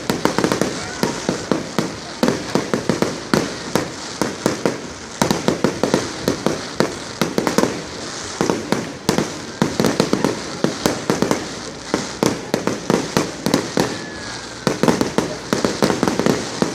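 Fireworks display: a dense, continuous barrage of sharp bangs and crackles, many a second, coming in swelling clusters.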